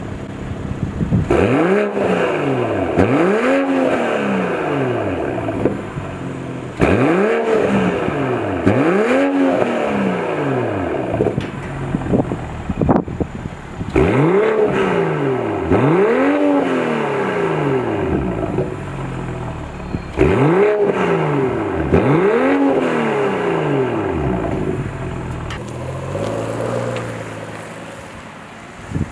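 BMW M340i's turbocharged 3.0-litre straight-six through an M Performance exhaust, revved repeatedly. The revs come mostly in pairs, each rising and falling over a second or two, with a few sharp cracks in between. It settles to a quieter run near the end.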